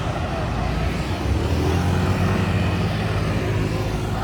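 A motor vehicle's engine running close by, a little louder from about a second in, over general street noise.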